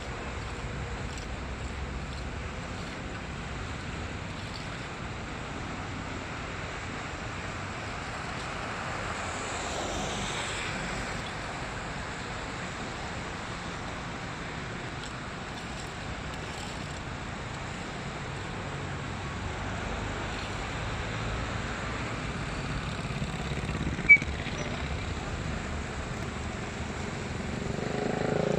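Steady outdoor street noise with passing traffic; a vehicle swells up and passes about a third of the way in. A single sharp click sounds near the end.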